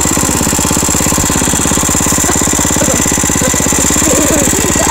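Mini bike's small engine running steadily, its firing heard as a rapid, even pulsing.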